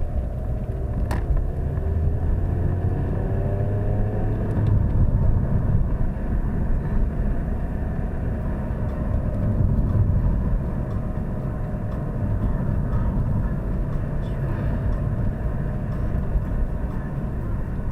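Opel Astra G's 2.0 DTi four-cylinder turbodiesel engine running as the car drives, with a steady low rumble. Its note climbs over the first few seconds.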